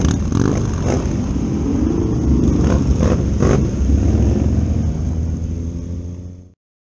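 Motorcycle engines at low road speed: the Kawasaki ZX-6R inline-four carrying the camera runs steadily at low revs amid other motorcycles ahead. Near the end the sound fades and then cuts off.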